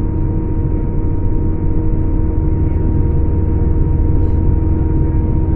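Scania K410 coach's diesel engine running steadily under way: a low, even drone with a constant whine on top.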